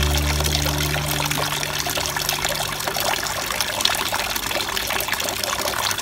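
Water pouring in a thin, steady stream from a small pipe spout and splashing into the shallow water of a tiered cement fountain basin. A held low note of background music dies away during the first second and a half.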